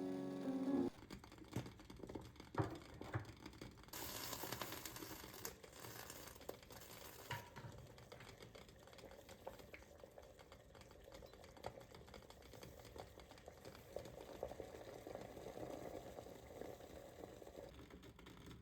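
Quiet kitchen sounds: scattered small clicks and knocks, with a hiss lasting about three seconds starting some four seconds in.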